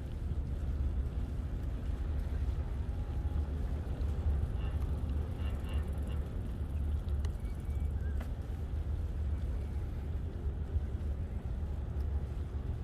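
Steady low rumble of wind and riding noise on the microphone of a moving bicycle, with a few faint high-pitched chirps about five seconds in.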